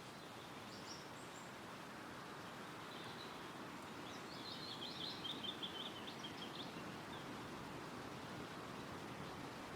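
Wind rustling steadily through forest trees, with a songbird singing a quick run of high notes a few seconds in and a faint high call about a second in.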